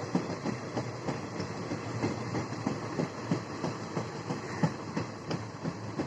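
Indian Railways passenger train running, its wheels clattering over rail joints in rapid, irregular clicks over a steady rumble.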